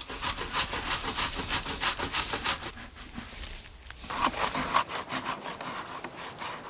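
Rapid back-and-forth scraping strokes worked through a block of hard mountain cheese (Bergkäse), in two runs with a short pause about three seconds in.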